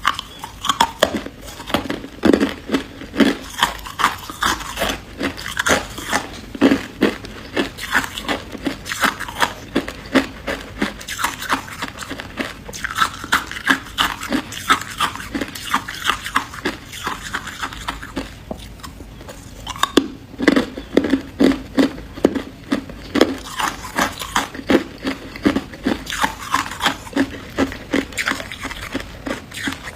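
A person biting and chewing freezer frost: rapid crunching, several crunches a second, easing briefly about two-thirds of the way through before picking up again.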